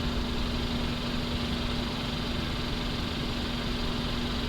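Steady hum of an idling engine, with one constant tone that doesn't change.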